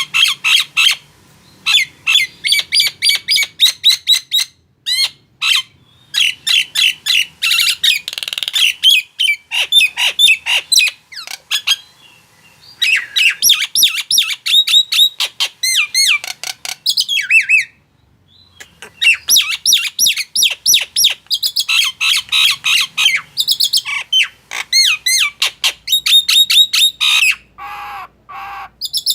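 Nias hill myna calling vigorously in long runs of rapid, sharp whistles and squawking chirps, with two short pauses and a lower, harsher call near the end.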